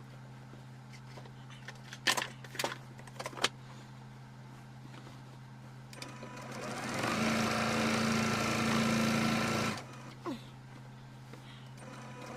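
Electric sewing machine running a short seam: a few clicks, then about three seconds of stitching that stops suddenly. A low steady hum runs underneath.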